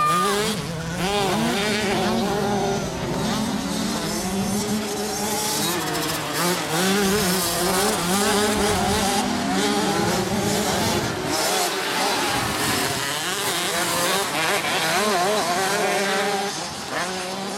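Several 50 cc automatic two-stroke motocross minibikes racing, their engines revving up and down over one another, the pitches constantly rising and falling.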